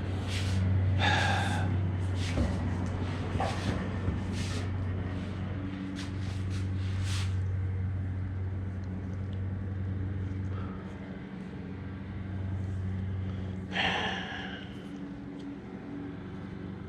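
A steady low electrical hum, with scattered rustling and clicking as wiring is handled during the first half, and a breathy sigh about 14 seconds in.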